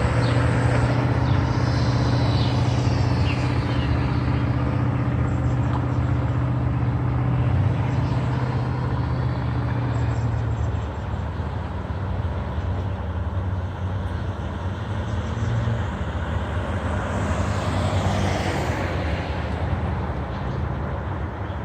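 A motor vehicle engine idling with a steady low hum that drops away about ten seconds in, over constant street traffic noise.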